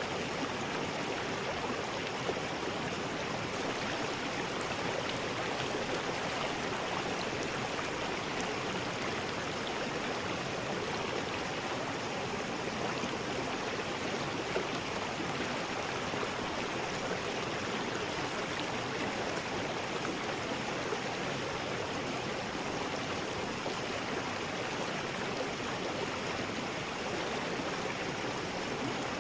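River rapids: water rushing steadily over rocks in an even, unbroken roar.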